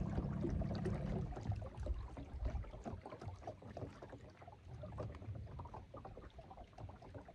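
A boat's motor hums steadily and shuts off a little over a second in, followed by irregular light knocks and rustles.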